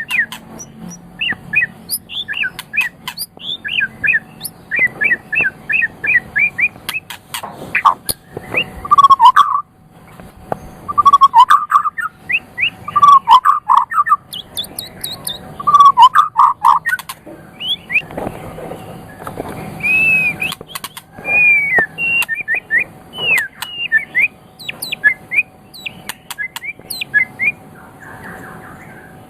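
White-rumped shama singing a long, varied song: quick runs of high chirps, then a series of loud, lower whistled phrases in the middle, then more mixed high notes, with sharp clicks among them.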